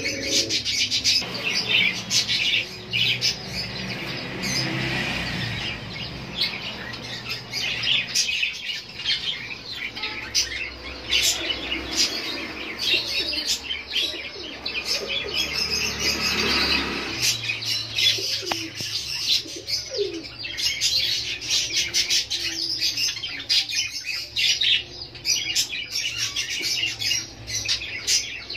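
Many caged small birds chirping continuously in a dense chorus of quick high chirps, with wings flapping now and then.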